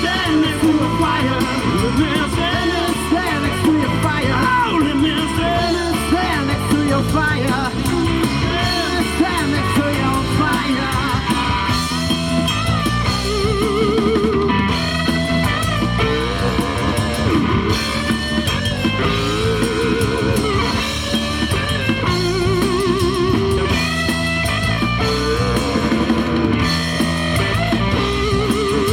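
Rock band playing an instrumental stretch: electric guitar lead with wavering, bent notes over bass and drum kit.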